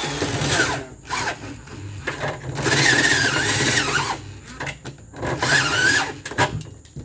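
Power drill boring a hole through the wall of an old freezer, run in three bursts with a wavering high whine as the bit cuts.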